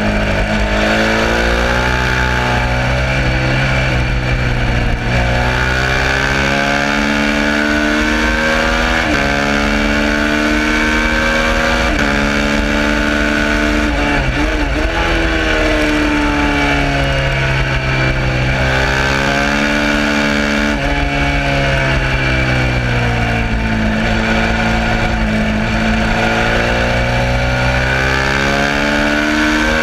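Suzuki SV650's 90-degree V-twin engine at full race pace: the revs climb and fall again and again, with sudden drops in pitch at each upshift and rises as it is wound out or blipped on downshifts.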